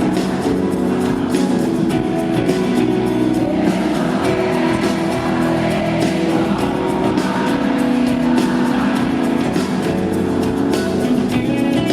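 Live band music from a concert: an instrumental passage with sustained chords at a steady, loud level.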